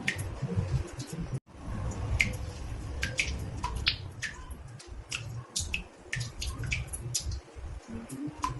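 Water drops falling into a bathtub, irregular plinks at about two a second over a low rumble. The sound cuts out for a moment about a second and a half in.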